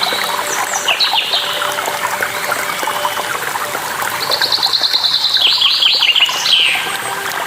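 Songbirds chirping and calling over the steady rush of a waterfall. A rapid run of high chirps comes in the middle.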